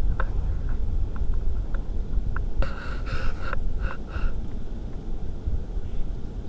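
Wind buffeting the microphone with a steady low rumble. About two and a half seconds in, a short high call lasting about a second, then two brief chirps.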